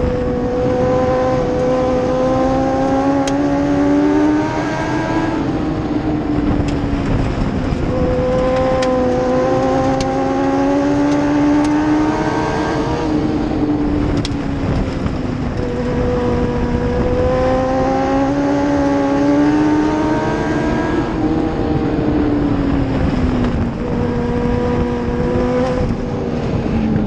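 Dwarf race truck engine running hard around a short oval track. Its pitch climbs for several seconds down each straight, then drops as it lifts for the turns, repeating about four times, once per lap.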